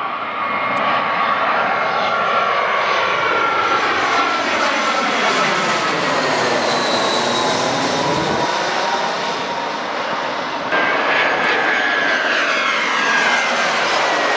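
Jet airliner passing low overhead: steady jet engine noise with a whine that drifts slowly down in pitch, the sound sweeping as the plane goes over. About eleven seconds in it gets suddenly louder, with a higher whine.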